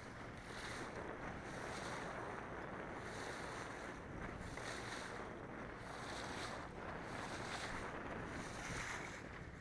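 Boat under way: a steady rush of wind and water, with a faint low motor hum. A high hiss swells and fades about once a second.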